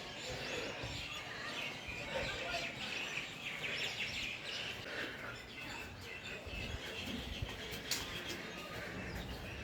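Small birds chirping and twittering against steady outdoor background noise.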